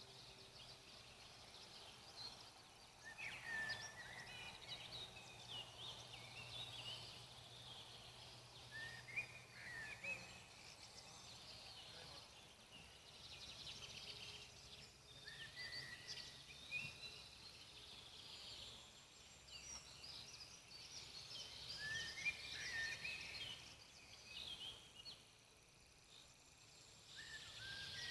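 Faint forest ambience: birds chirping on and off, with a few sharp crackles from a campfire.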